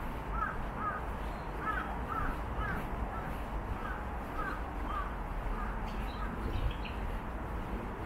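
A bird calling repeatedly: a series of short, falling calls, often in pairs and roughly two a second, that stop about six seconds in, over a steady low background noise.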